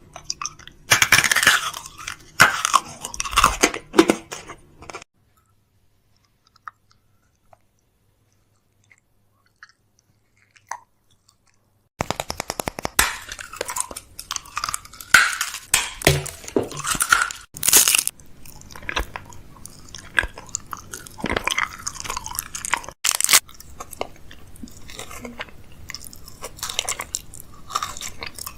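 Close-microphone ASMR mouth sounds: dense, crackly wet clicks and smacks. They stop for several seconds about five seconds in, then start again.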